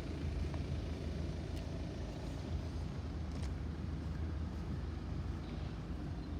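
Road vehicle engines running, a steady low rumble with a few faint clicks.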